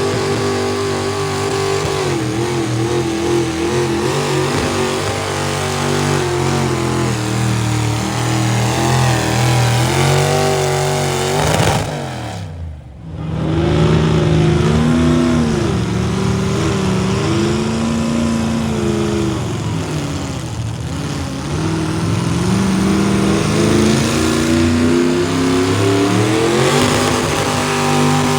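High-revving engine of a competition pulling vehicle running hard under load, its pitch wavering up and down. About twelve seconds in the revs fall sharply and the sound briefly dips, then it climbs straight back up to full revs.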